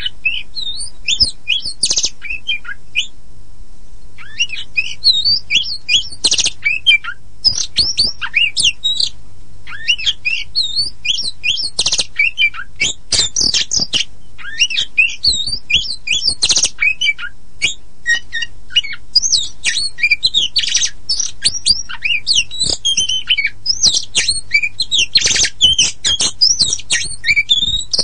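Oriental magpie-robin (kacer poci) singing a fast, almost unbroken song of varied whistles and chattering notes, with a short pause about three seconds in, over a faint steady hum.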